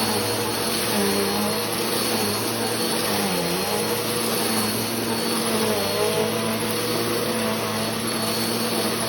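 Bissell PowerForce Helix Turbo Rewind Pet 1797 upright vacuum cleaner running while vacuuming, a steady motor whine with hiss. Its pitch dips briefly and recovers about three and a half seconds in, and a little again near six seconds.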